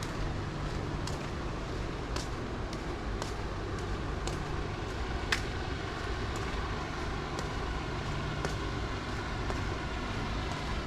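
Town street ambience: steady traffic noise with a low engine hum, and a sharp light click repeating about once a second.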